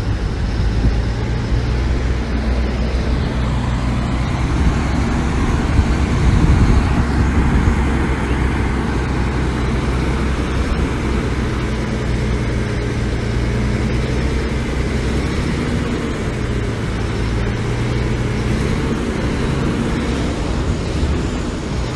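Heavy diesel engine of construction machinery running steadily with a low drone.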